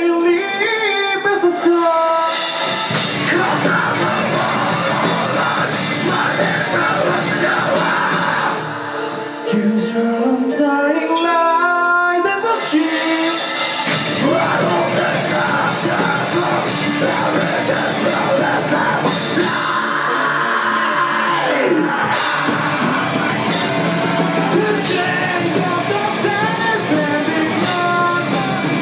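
Live rock band playing at full volume, with singing over guitars and drum kit. About ten seconds in, the level dips briefly, then a long rising pitch slide follows before the full band comes back in.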